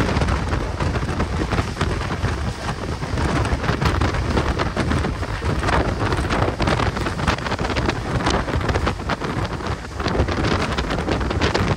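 Loud continuous rumble and dense rattling of a moving train hauled by a WDG4 diesel locomotive, with heavy wind buffeting the microphone.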